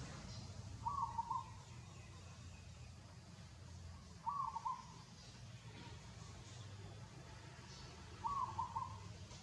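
A bird calling: a short call repeated three times, about four seconds apart, over a faint low steady hum.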